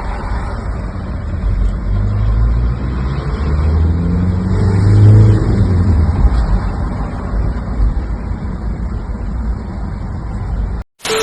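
Motor vehicle engine running, rising in pitch and loudest about five seconds in, then easing back.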